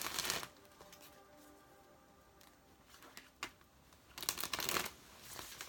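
Tarot cards shuffled by hand: a short rustle of cards at the start and two more near the end, over faint soft background music.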